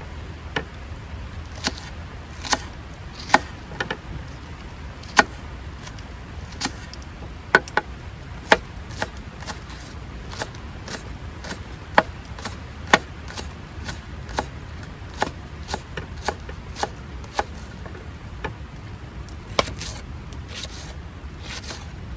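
Kitchen knife cutting food on a cutting board in slow, irregular single strokes, each a sharp knock, over a steady low background rumble.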